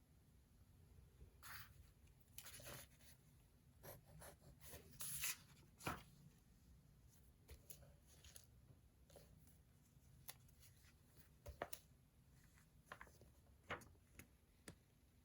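Faint pen-on-paper writing: short, irregular scratching strokes with small taps scattered between them, the loudest about five to six seconds in.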